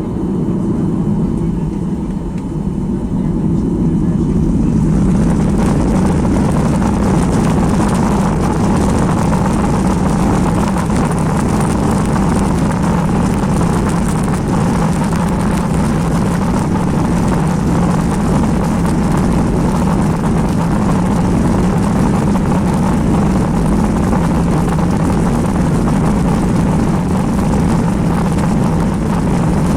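Cabin noise of a Boeing 737-800 with CFM56-7B engines. About five seconds in, the engines spool up to takeoff power and the noise rises sharply, then holds loud and steady, as on the takeoff roll.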